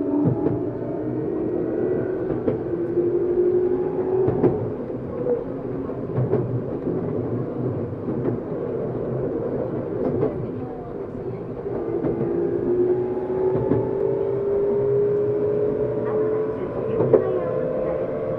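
Tokyu 7700 series electric train heard from inside a motor car while running, the motor whine rising in pitch twice as the train picks up speed. Sharp clicks from the wheels over rail joints come through now and then.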